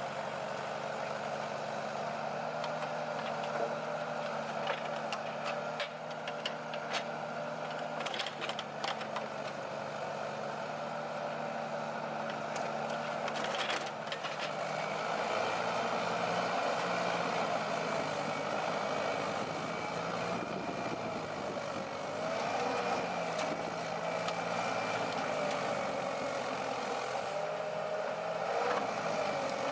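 Heavy diesel machinery engine running steadily, its pitch rising and falling from about halfway through as it works under varying load, with scattered metallic clanks and knocks in the first half.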